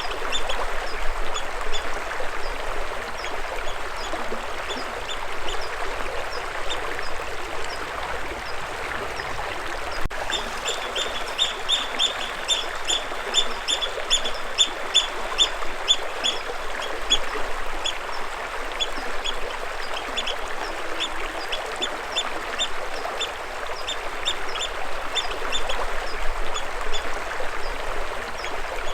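Steady rush of flowing water, with a small bird chirping in quick runs of short high notes, about three or four a second, busiest in the middle.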